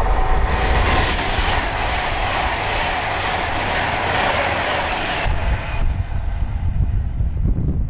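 A train passing at speed on the main line with a broad rushing roar that stops abruptly as the end of the train goes by, a little over five seconds in. Wind buffets the microphone throughout.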